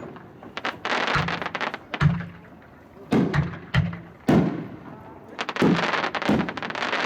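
3-inch aerial shell cakes firing, two at once: about eight sharp booming shell breaks with spells of dense crackling from crackle effects between them.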